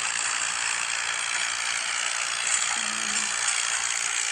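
Steady, dense mechanical rattling and clatter.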